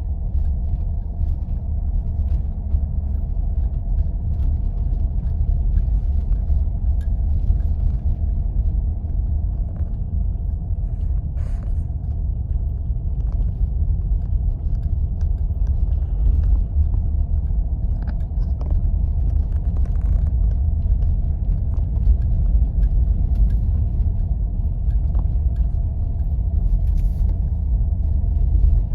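Steady low rumble of a vehicle driving on snow-covered roads, with faint scattered clicks and ticks over it.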